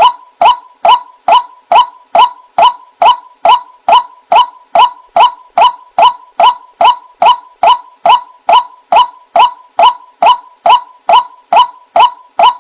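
White-breasted waterhen (ruak-ruak) calling vigorously: a steady run of short, sharp, loud notes about two a second, all on much the same pitch. This is a recorded lure call for drawing waterhens in to be trapped.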